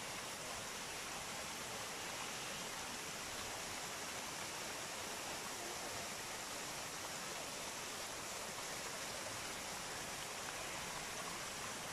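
Steady rush of falling and running water from a waterfall, an even hiss with no breaks.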